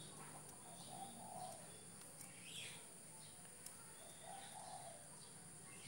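Faint bird calls over near silence: a lower call that comes back every couple of seconds and a few short higher chirps.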